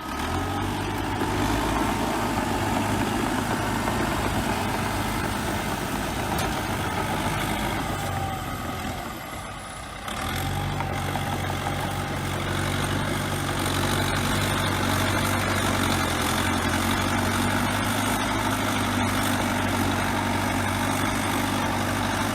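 A bulldozer's diesel engine running steadily, dipping quieter for a moment about nine seconds in before coming straight back.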